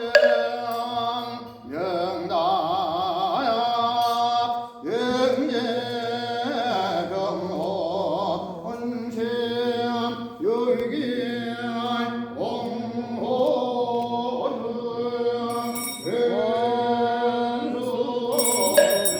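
Korean Buddhist ritual chanting: a voice sings long, wavering phrases over a steady held drone. A bell jingles at the start and again near the end.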